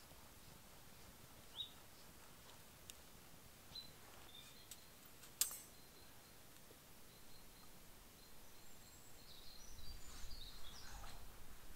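Quiet outdoor ambience with a few short, high bird chirps, a single sharp click about five seconds in, and a cluster of chirps near the end over a low rumble that grows.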